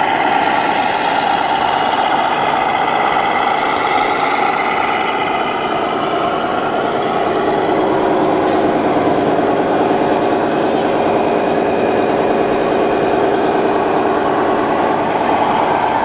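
Diesel truck engine sound running steadily from an RC model's sound module, with the engine note shifting about halfway through.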